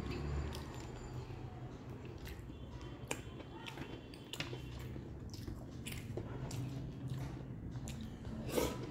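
Close-miked eating sounds of a person chewing a mouthful of rice and mutton curry: irregular wet smacks and squishes with scattered clicks, and a louder one near the end as a fresh handful goes into the mouth.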